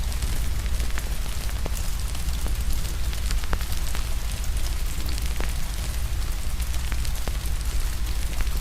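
Fire crackling with frequent sharp, irregular pops, over a steady hiss of rain and a deep, constant low rumble.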